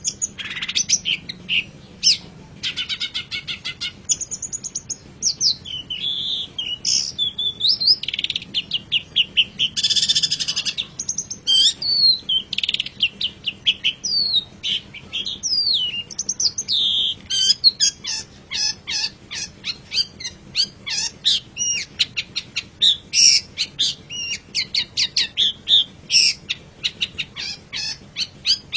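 Long-tailed shrike (cendet) singing a loud, varied song of chattering trills and whistled notes that glide up and down. From about two-thirds of the way in, the song turns to fast runs of short, repeated notes.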